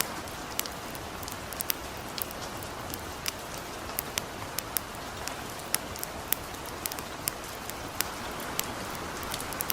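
Gentle steady rain with a campfire crackling: an even hiss with irregular sharp pops and snaps scattered through it.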